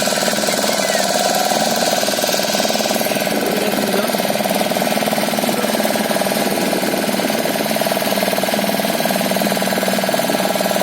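Motorboat engine running steadily with an even, fast pulse.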